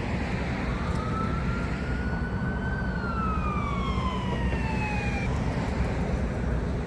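Emergency-vehicle siren wailing once, rising in pitch and then falling away over about five seconds. Under it runs a steady low rumble of street traffic.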